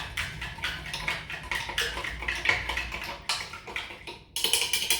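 A spoon stirring baking soda solution vigorously in a container, clinking repeatedly against its sides; the clinking stops just before the end.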